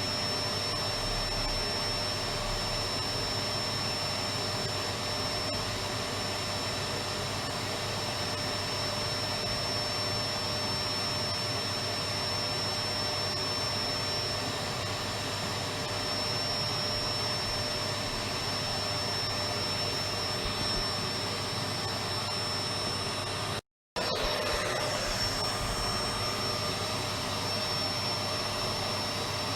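Electric vacuum cleaner running steadily, a continuous whooshing hum with a steady whine on top. The sound drops out for a split second about three-quarters of the way through.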